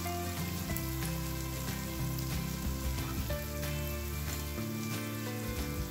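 Goat heart pieces sizzling steadily in oil in a frying pan on a low flame, under background music with long held notes.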